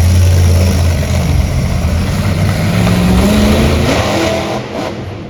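Monster truck engine running loud, revving with a rising pitch about three seconds in, then easing off near the end.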